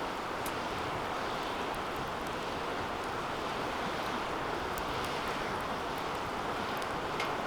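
Wood fire burning in a metal fire pit: a steady rush of flames with scattered crackles and pops, one sharper pop near the end.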